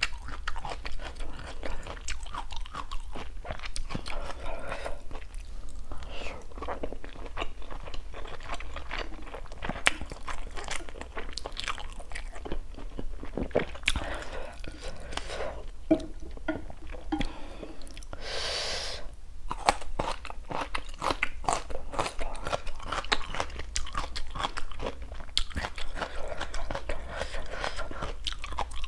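A person chewing and eating spicy instant noodles close to a clip-on microphone, with many wet mouth clicks and one louder airy sound about two-thirds of the way through.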